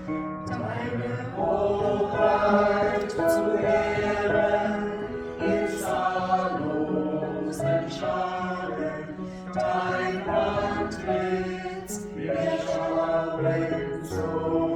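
Church choir singing in several-part harmony, with sustained notes and sung consonants heard clearly.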